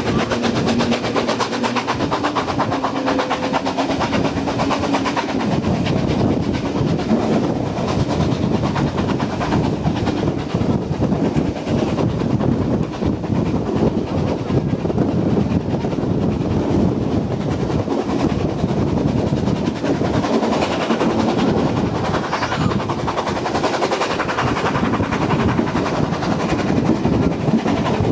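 Train running along the rails, with continuous wheel-on-rail rumble and clatter.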